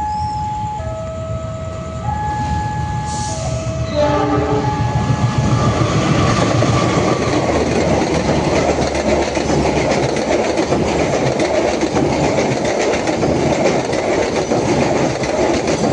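A two-tone warning signal alternates between a higher and a lower note, about a second each, for the first four seconds. Then a train passes close by with a loud rumble and a continuous clatter of wheels over rail joints.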